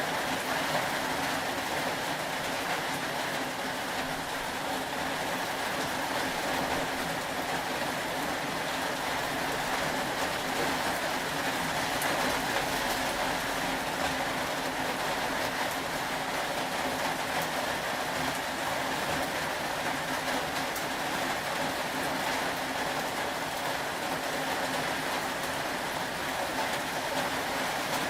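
Steady rain falling: an even, unbroken hiss with a faint steady hum underneath.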